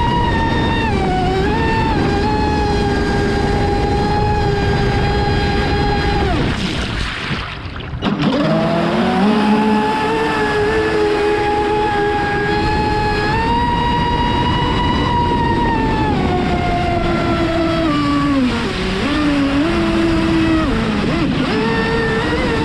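Traxxas Spartan RC racing boat's brushless electric motor whining at speed over the rush of water, its pitch shifting up and down with the throttle. About seven seconds in the throttle is cut and the whine briefly drops away, then rises again as the boat powers back up.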